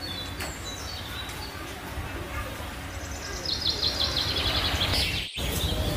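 Small birds chirping over a steady low background hum, with a quick run of rapid high chirps from about three and a half seconds in. The sound drops out for an instant near the end.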